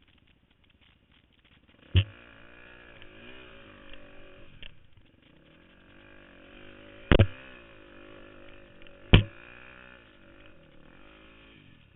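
KTM 250 XC-F single-cylinder four-stroke dirt bike engine revving up and down as the throttle is worked, starting about two seconds in. Three sharp, loud thumps break through it, one as the engine comes in and two more later on.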